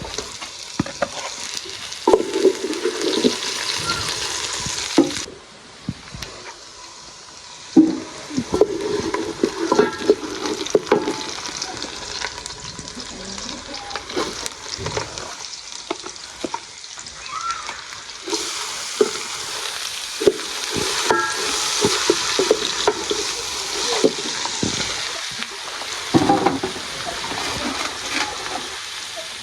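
Cabbage frying and sizzling in a hot pan while being stirred, with scattered knocks and scrapes of the cooking utensil against the pan. The sizzle swells and drops back a few times.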